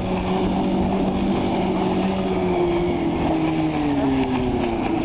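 A motorboat's engine running steadily over water and wind noise, its note dropping in pitch in the second half.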